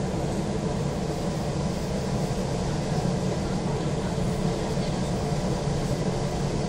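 Steady rumble inside an electric train car stopped at a station, with another train running past on the adjacent track.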